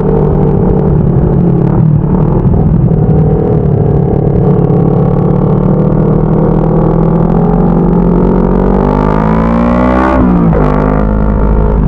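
CFMoto 400NK motorcycle's parallel-twin engine under way. It runs steadily, then climbs in pitch as it accelerates. About ten seconds in the pitch drops sharply at a gear change, and it settles into a steady lower note.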